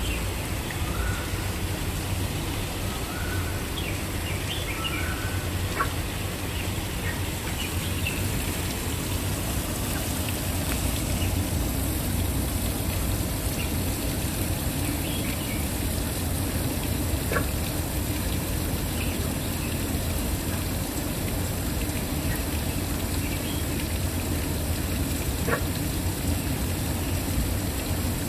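Waterfall rushing in a steady, even roar of falling water, with a few short, faint bird chirps in the first several seconds and the odd brief call later.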